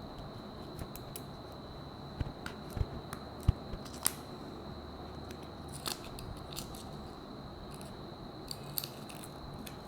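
Scattered small clicks, ticks and crackles of smartwatch display parts (LCD panel and glass layers) being handled and pulled apart, with a few sharper ticks between about two and four seconds in. A faint steady high whine runs underneath.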